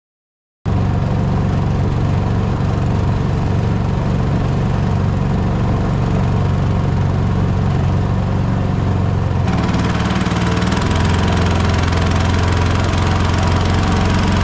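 MudSkipper mud motor running steadily. It comes in suddenly about half a second in. About nine seconds in, the hiss over the engine gets brighter and the low hum shifts slightly.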